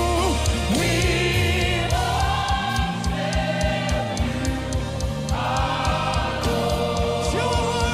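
Gospel choir singing with instrumental backing: sustained, gliding voices over bass notes and a regular percussion beat.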